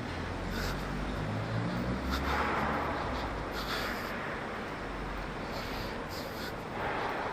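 Footsteps and rubbing of a handheld camera while walking, with irregular light ticks about every half second, two swells of hiss, and a low rumble underneath.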